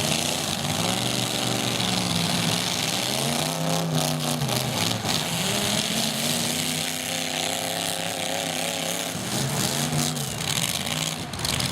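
Demolition derby truck engines revving, their pitch repeatedly rising and falling, over a steady background din. There are a few short knocks about four seconds in and again near the end.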